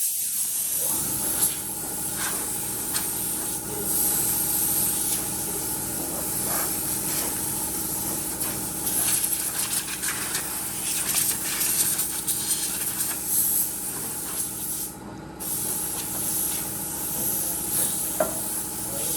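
Compressed air hissing steadily from an air gun over the even hum of a running motor. The hiss cuts out briefly about fifteen seconds in, then resumes.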